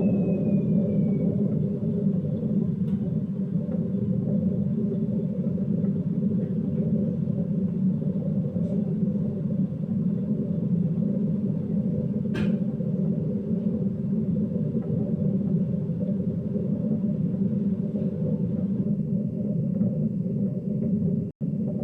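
Hoover DYNS 6105 DZ front-loading washing machine spinning steadily at about 400 rpm, a continuous low rumble from the drum and motor, on a machine whose drum bearings are faulty. A single short tick is heard about halfway through.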